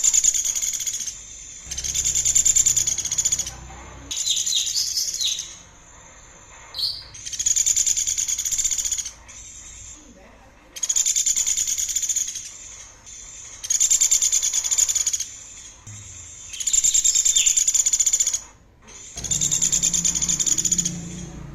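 Small songbird singing a series of fast, high, rattling trills, each phrase lasting one to two seconds and repeated about every two to three seconds, some with a few brief whistled notes mixed in.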